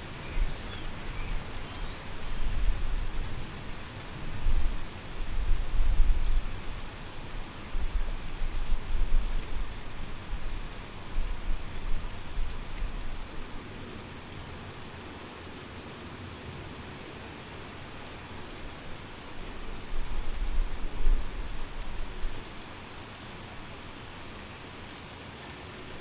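Heavy rain pouring steadily, with low rumbles of thunder rolling in and fading several times; the rumbling dies away near the end, leaving only the rain.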